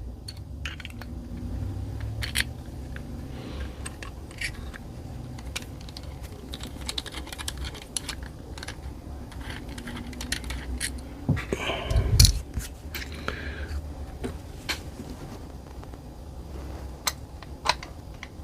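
Scattered light clicks and taps of small metal parts and a hex key being handled while a screw is driven into an air rifle's action during reassembly, with one louder knock about twelve seconds in. A low steady hum runs underneath.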